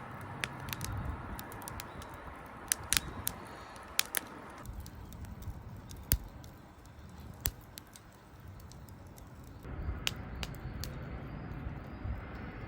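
Wood campfire crackling: irregular sharp pops and snaps over a low hiss.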